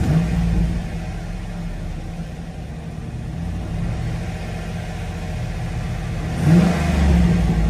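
2005 Chevrolet SSR's 6.0-litre LS2 V8 idling steadily, heard from the driver's seat, with a brief rev about six and a half seconds in as the pitch rises and falls back.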